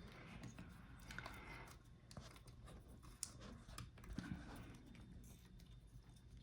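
Near silence broken by a few faint, scattered clicks and taps, like small parts being handled.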